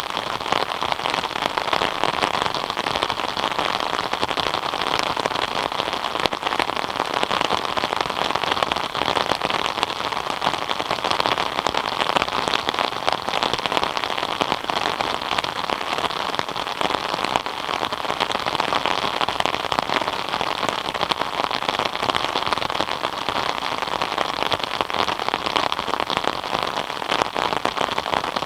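Steady rain falling, a dense patter of many drops that keeps on without let-up.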